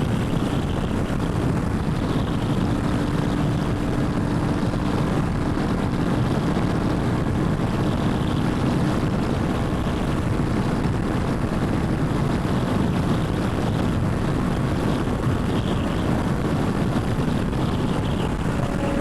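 Motorcycle riding at a steady speed: a Royal Enfield Himalayan 450's single-cylinder engine drones evenly under constant wind and road rush.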